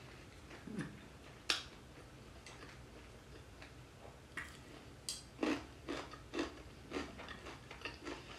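Mouth chewing fried chicken and pickled radish: from the middle on, a run of soft, crackly crunches about two a second, after a single sharp click about a second and a half in.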